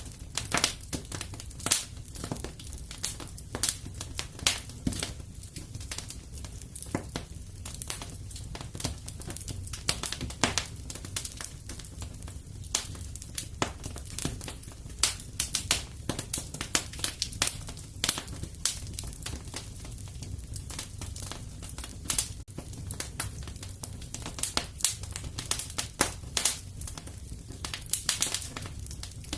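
Wood fire crackling in a fireplace, with irregular sharp pops several times a second over a low, steady rumble.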